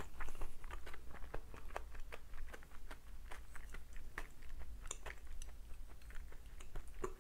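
Close-up chewing of crunchy radish kimchi (seokbakji), a run of irregular wet crunches and clicks.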